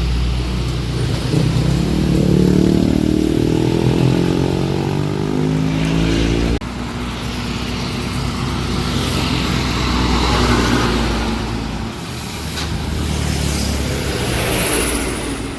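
Heavily loaded truck's diesel engine labouring up a steep climb: the revs rise for about six seconds, drop abruptly about six and a half seconds in, then the engine pulls on at lower revs.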